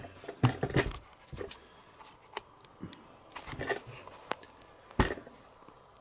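Scattered light clicks, taps and handling noises of small tools and wooden parts on a workbench, with a sharper knock about five seconds in.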